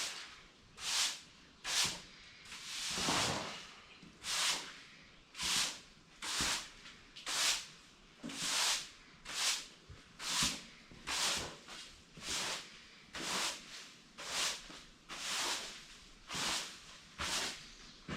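Repeated sweeping strokes of a broom, about one a second, brushing debris out from under a riding mower's deck.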